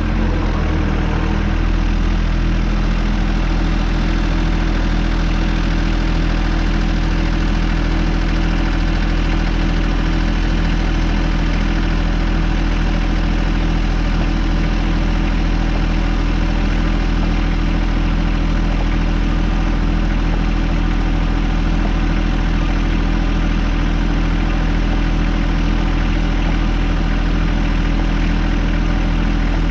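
John Deere 1025R tractor's three-cylinder diesel engine running steadily, settling to an even idle in the first couple of seconds.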